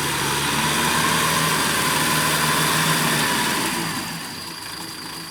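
Kubota M6040 tractor's diesel engine running steadily, getting quieter about four seconds in.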